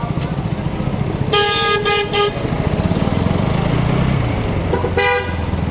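Vehicle horn honked in a few short blasts about a second in, and once more near the end, over the steady drone of a motorcycle engine on the road.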